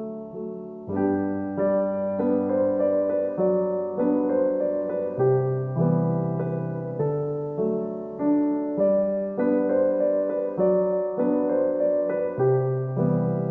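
Background piano music: a gentle tune of struck notes and chords at an even pace, with a fuller bass line coming in about a second in.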